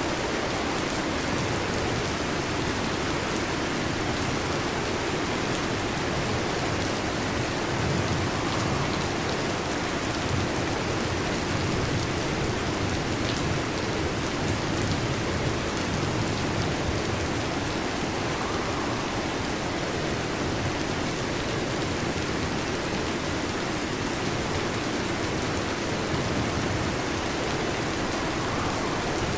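Heavy rain falling steadily on a metal roof, an even, unbroken patter with no clear thunderclaps.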